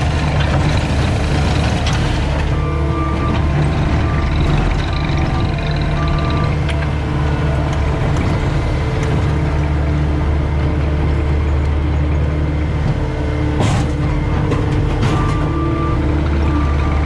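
CAT 259D skid steer's diesel engine running under load, with its backup alarm beeping in short runs while it reverses, twice. A single sharp knock about three-quarters of the way through.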